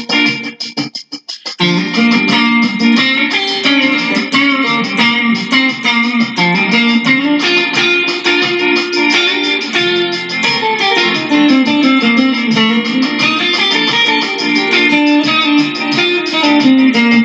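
Guitar music with a moving bass line. About half a second in it drops to a few short, separate stabs, then full playing resumes.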